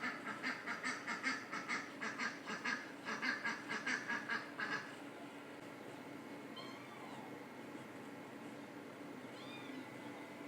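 Duck quacking in a rapid, even run of about four calls a second, stopping about five seconds in. After that only a steady low hum remains, with a few faint short high chirps.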